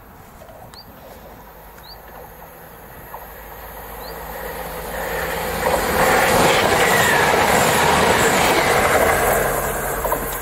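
Class 175 diesel multiple unit approaching and passing close by at speed. Its engine and wheel noise builds from about four seconds in, is loudest for a few seconds, then fades as it goes away. A few short bird chirps are heard in the first few seconds.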